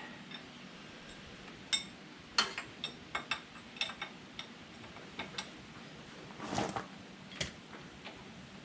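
Scattered sharp metallic clicks and clinks from a socket wrench working on tractor mounting-plate bolts: about a dozen irregular ticks, with a short scrape about six and a half seconds in.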